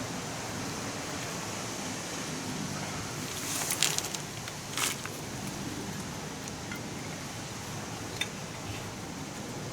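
A few sharp metallic clicks and clatters from handling tools or parts over a steady hiss, in two short clusters around the middle and once more near the end.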